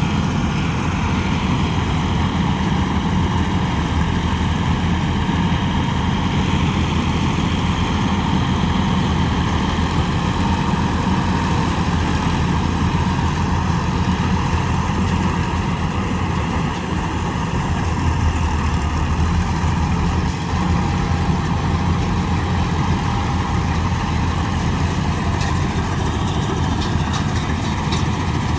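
Wheeled combine harvester's diesel engine running steadily under load, a constant low drone with a steady whine above it.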